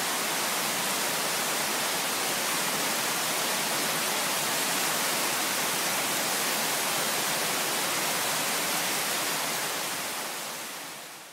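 Heavy rain pouring steadily on trees and ground, a dense, even hiss that fades out near the end.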